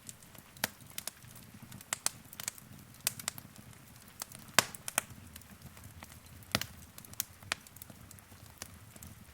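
Wood fire crackling in a fireplace: irregular sharp pops and snaps, the loudest about four and a half and six and a half seconds in, over a faint low rumble of the flames.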